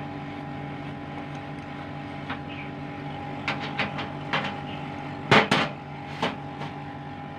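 Sharp metallic clinks and knocks of service-valve caps and tools being handled at a split air conditioner's outdoor unit, a loud double knock about five seconds in, over the steady hum of the running unit.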